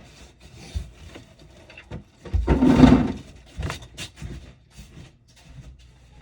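Hand tools being picked up and handled: scattered knocks and clicks, with a louder clattering rustle lasting under a second about two and a half seconds in.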